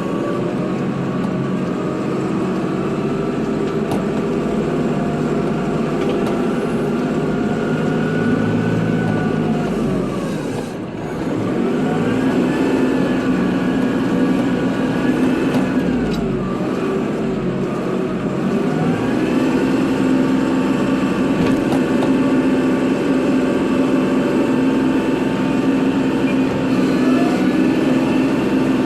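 Kubota tractor's diesel engine running steadily under load while plowing snow. Its pitch sags and comes back up about ten seconds in and again around seventeen seconds in.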